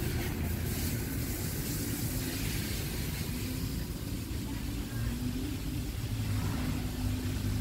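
Car engine idling: a steady low rumble with a faint hum.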